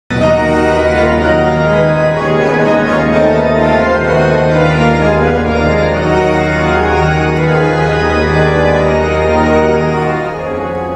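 Music of sustained organ chords, held steadily and changing every second or two, easing off slightly near the end.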